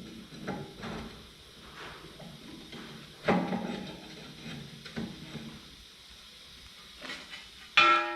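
Steel parts of a crusher jaw knocking and clunking as a curvature plate is worked into place, with a sharp metal clang near the end that rings on.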